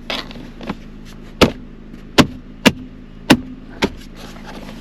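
Five sharp knocks and clicks, irregularly spaced half a second to a second apart, from the hard plastic parts of a car's center console armrest being pressed and snapped into place.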